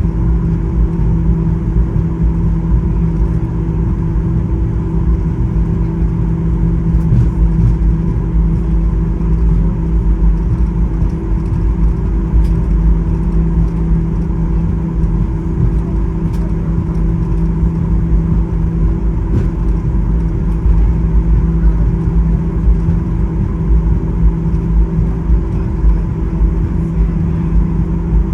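Cabin noise inside a Boeing 737-800 taxiing after landing: a steady low rumble with a constant hum from the engines at idle, and a few faint clicks.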